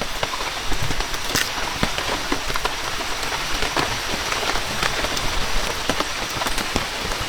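Heavy rain falling steadily, with many sharp drops striking close by.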